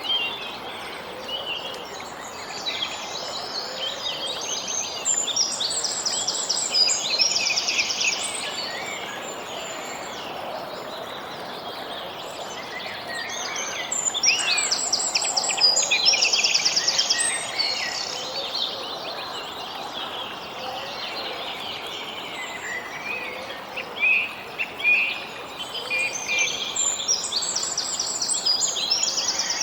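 Songbirds singing over a steady background hiss, with clusters of chirps and fast trills. The birdsong swells roughly every ten seconds.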